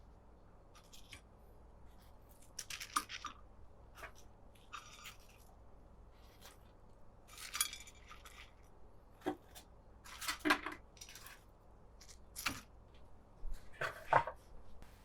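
Irregular kitchen handling noises: short clicks, scrapes and a few light clinks, several in a cluster a little after halfway and again near the end.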